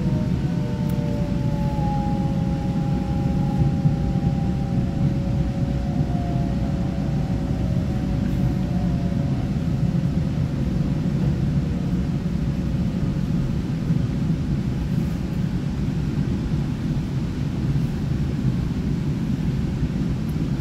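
Steady low rumble of an EMU900 electric commuter train running, heard from inside the passenger car. Over it a whine from the train's electric traction motors slides gently down in pitch and fades out about twelve seconds in.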